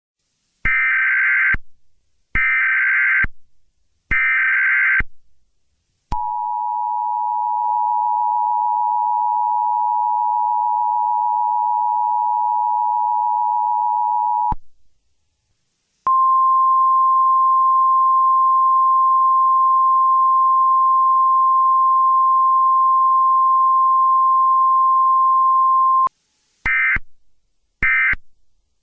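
Emergency Alert System tones. Three roughly one-second warbling SAME data bursts come first, then the two-tone EAS attention signal held for about eight seconds. After a short gap comes a steady single-pitch alert tone, the 1050 Hz Weather Radio warning tone, for about ten seconds, and two short end-of-message data bursts follow near the end.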